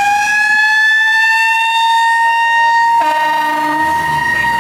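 Fire engine's Federal Q mechanical siren winding up, its pitch rising and then levelling off into a steady high wail. A second, lower steady tone joins about three seconds in.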